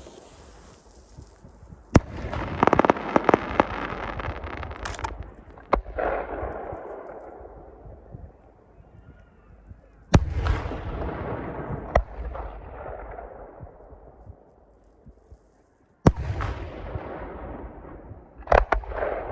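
Aerial fireworks shells bursting overhead: about six sharp bangs, each followed by a long rumbling echo that fades away, with a rapid run of crackling pops a few seconds in.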